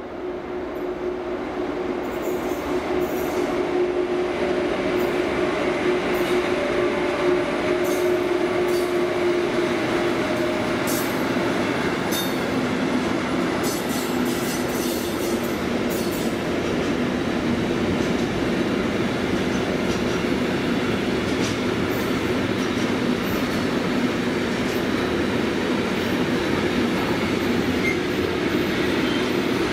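A train approaching and running past on the track: its rolling noise grows over the first few seconds and then holds steady, with a steady hum in the first ten seconds or so and short high wheel clicks and squeals scattered through it.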